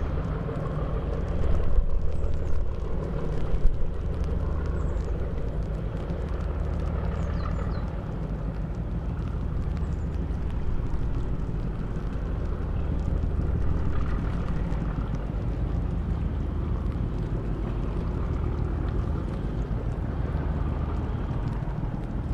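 Diesel engine of a sand-carrying river boat running steadily, a low drone that swells and eases every few seconds.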